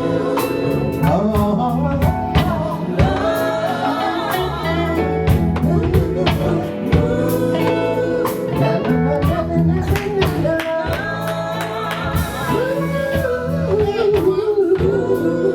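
Live gospel band playing, with a lead singer's voice over bass, guitar and drums with a steady beat.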